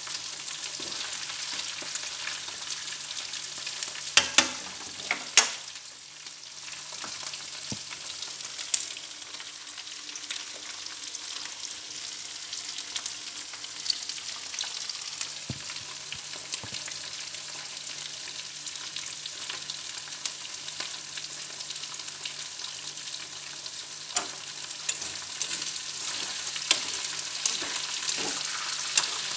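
Shrimp and lemongrass frying in oil in a pan, a steady sizzle. A few sharp clicks of chopsticks against the pan come about four to five seconds in and again near the end.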